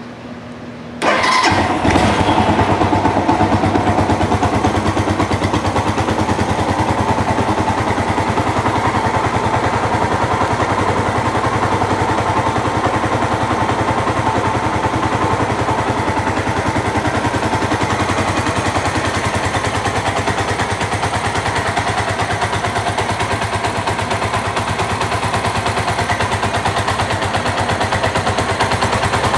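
Suzuki GZ250's single-cylinder four-stroke engine starts about a second in, then idles steadily.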